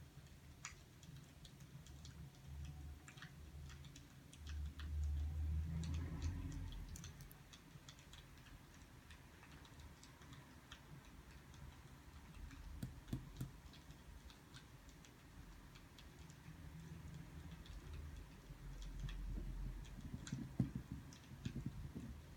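Burning firewood crackling faintly, with irregular sharp pops and ticks over a low, uneven rumble that swells a couple of times.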